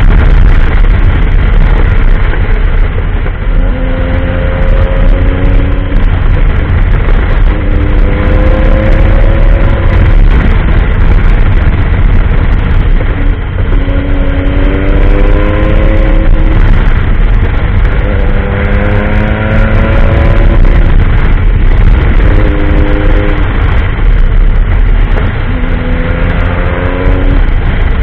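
Triumph Tiger adventure motorcycle engine accelerating and shifting again and again: its note climbs for a second or two, drops back at the shift, and climbs again, about six times. A heavy low rumble runs underneath.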